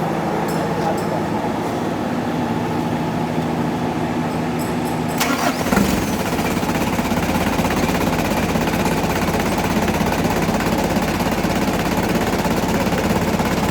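Car engine being started: a steady hum, then about five and a half seconds in a sharp change as the engine catches, and it runs on with a deeper, rougher sound.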